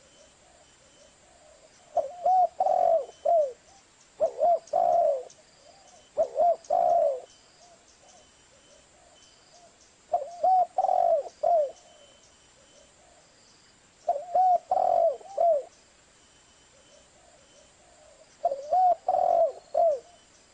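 Zebra dove (perkutut) cooing: six phrases of quick, staccato coo notes, each phrase a short run of rising-and-falling notes, with a pause of one to three seconds between them.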